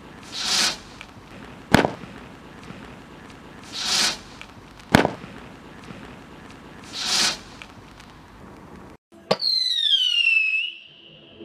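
Dominator Son of a Gun Roman candles firing: three whooshing shots, with a sharp crack between them about a second after the first two. About nine seconds in, the sound cuts out and a falling whistle-like tone plays, then levels off and holds.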